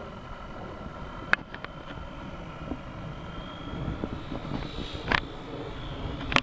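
Small RC model P-51 Mustang's electric motor and propeller whining in flight, the pitch sagging and then rising in the second half, over wind rumbling on the microphone. Two sharp clicks, about a second in and about five seconds in.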